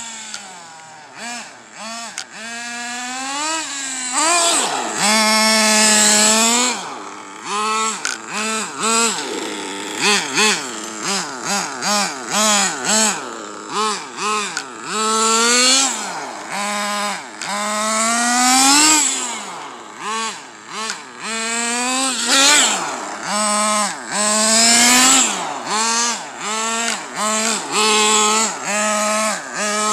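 .21 nitro engine of an RC car revving up and down again and again as it is driven, its pitch rising and falling in quick sweeps with a steady low note under it between throttle bursts. It carries a noise that the driver thinks is probably the clutch, which runs on makeshift two-shoe clutch shoes.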